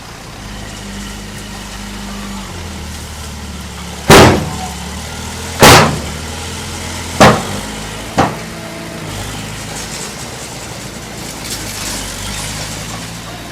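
A heavy earth-moving machine's engine running steadily, with four loud bangs about a second or so apart, each weaker than the last.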